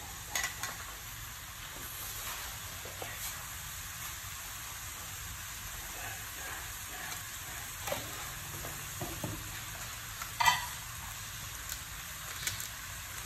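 Frog pieces frying in a wok, a steady sizzle in bubbling oil and juices. A metal spatula clinks sharply against the wok about ten seconds in, with a few lighter scrapes as it starts stirring.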